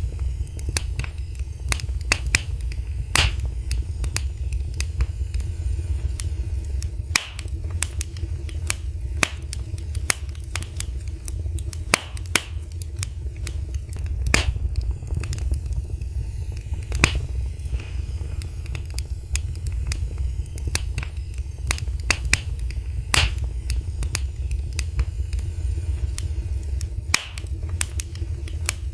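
Wood fire burning in a fireplace, irregular sharp crackles and pops over a steady low rumble of the flames.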